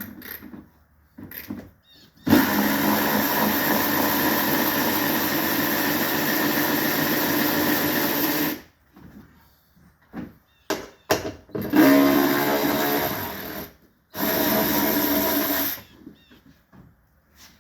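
Cordless power driver spinning nuts off the taillight studs. It runs in bursts: one long run of about six seconds, a few short blips, then two shorter runs near the end.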